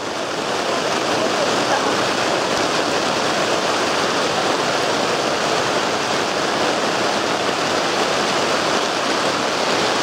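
Heavy rain falling on a tent, heard from inside as a loud, steady hiss that fades in at the start.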